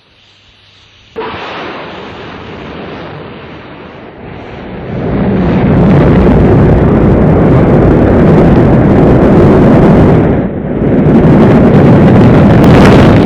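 Rocket engines igniting with a sudden start about a second in, then building over a few seconds to a loud, steady, deep rumble, which dips briefly near the end.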